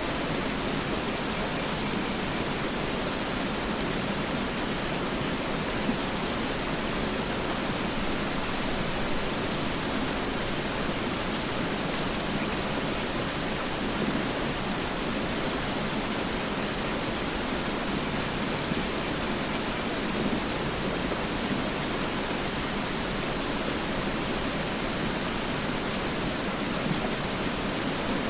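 Mountain river rushing steadily over rocks, an even, unbroken wash of water noise.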